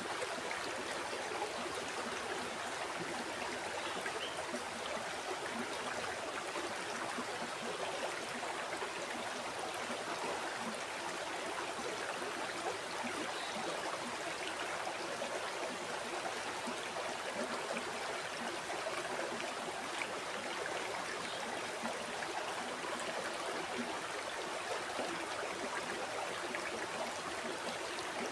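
River water flowing and gurgling steadily over rocks, an even rushing sound without pauses or distinct events.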